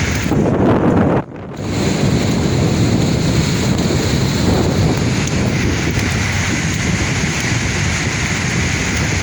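Sea waves surging and washing, with wind buffeting the microphone. The sound dips sharply for a moment about a second in, then returns to a steady wash.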